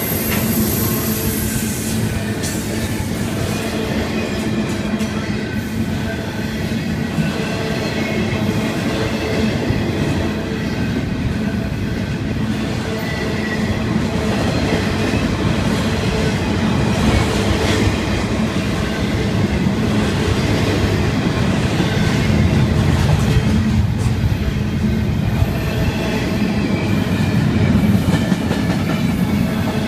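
Florida East Coast freight train's double-stack container cars rolling past: a steady rumble and clatter of steel wheels on rail with a low hum under it, growing a little louder in the second half.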